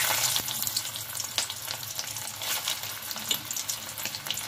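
Stuffed bitter gourds sizzling and crackling in hot mustard oil as they are laid into the pan one after another. The sizzle surges loudest at the start, as one gourd goes in.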